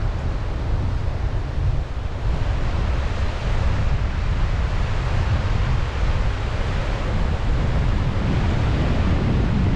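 Sea waves washing on the shore, with wind buffeting the microphone as a steady low rumble. The hiss of the surf swells about two seconds in.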